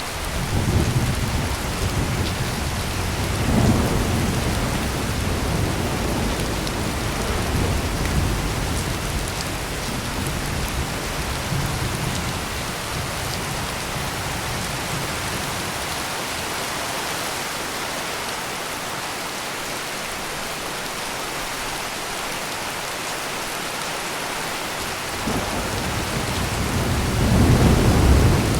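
Heavy rain pouring steadily, with low rolling thunder rumbling through the first half, easing off in the middle, then a louder rumble building near the end.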